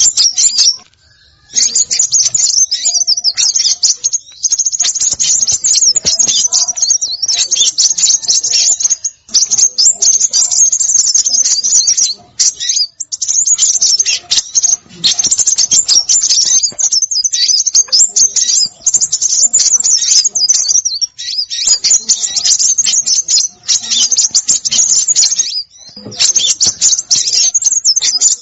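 Small songbirds chirping and twittering, recorded as a bird-lure call: dense, rapid, high-pitched chirps in stretches of a few seconds broken by short pauses.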